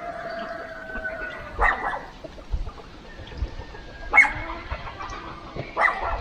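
A rooster's long crow trails off in the first second and a half. Then a dog barks three times, about two seconds apart.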